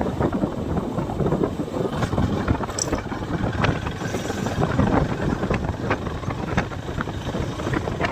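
A motorcycle on the move: steady engine and road noise with wind buffeting the microphone.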